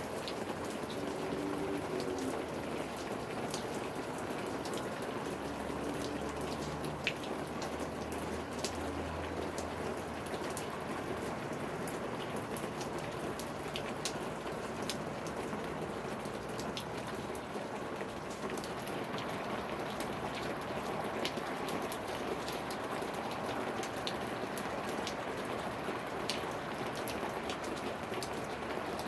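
Steady heavy rain falling, with many sharp drops ticking on a hard surface. A faint low rumble comes in about six seconds in and fades a few seconds later.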